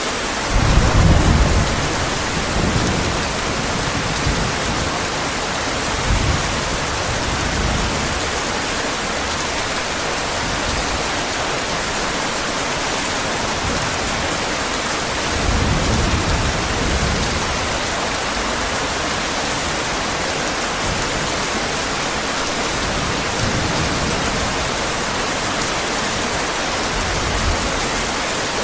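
Heavy rain falling steadily, with low rolls of distant thunder swelling up about a second in and again about halfway through.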